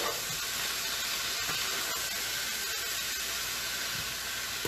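Cabbage frying and steaming in a hot pan: a steady sizzling hiss with faint small crackles.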